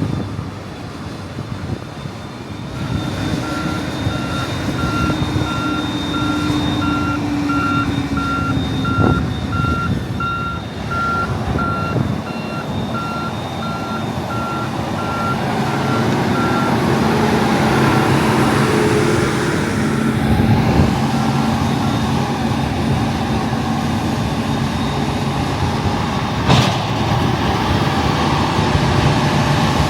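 Reversing alarm on heavy machinery beeping about twice a second over running diesel engines. The beeping stops about halfway through as the engine noise grows louder, and there is a single knock near the end.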